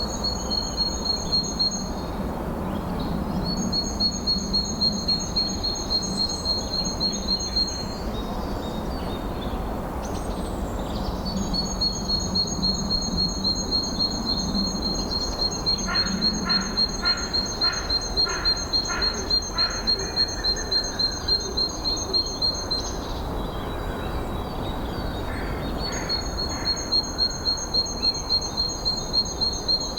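A bird singing long trains of rapid, evenly repeated high notes, each run lasting several seconds with pauses between, over a steady rush of wind. Partway through, a second, lower series of evenly spaced notes sounds briefly.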